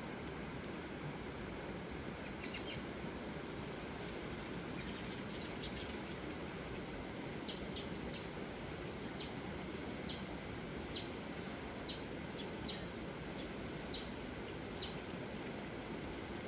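River water flowing steadily, with birds chirping over it; from about seven seconds in, one bird repeats short high chirps about once a second.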